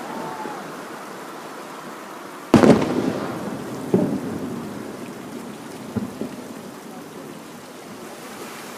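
Aerial fireworks shells bursting: one loud boom about two and a half seconds in with a rolling, echoing tail, followed by two weaker booms about a second and a half and three and a half seconds later.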